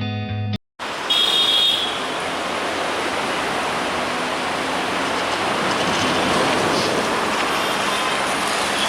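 Intro music ends within the first second, then a train running past: a steady rushing noise that holds an even level, with a brief high tone about a second in.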